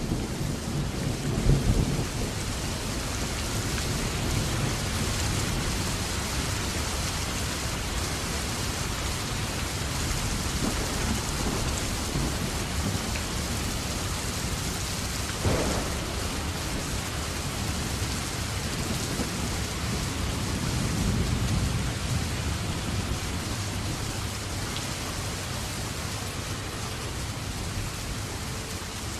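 Steady rain falling and pattering on surfaces, an even hiss, with a heavier low rumble in the first couple of seconds and again about three-quarters of the way through. A single sharp knock sounds about halfway.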